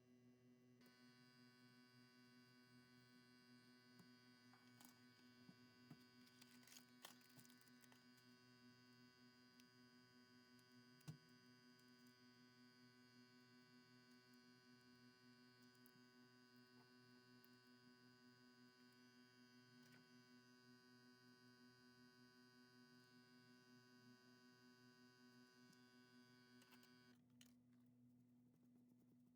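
Near silence with a faint steady electrical hum that cuts off suddenly near the end, and a few faint clicks.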